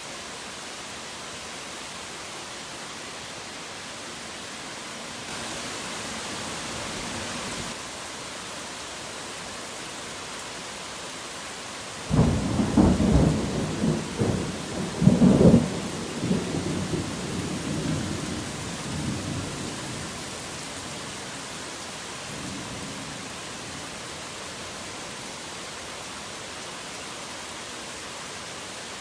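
Steady rain falling, a little heavier for a few seconds early on. About twelve seconds in, a sudden thunderclap breaks into rolling thunder, with a second loud peak about three seconds later, then rumbles away over several seconds.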